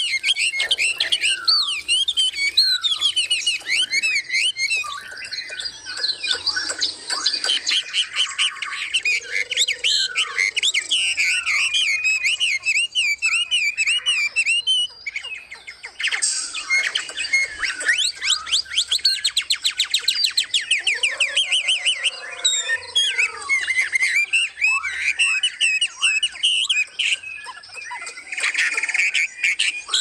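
Several songbirds singing and chirping together, with many overlapping calls, whistles and fast trills and a short lull about halfway through.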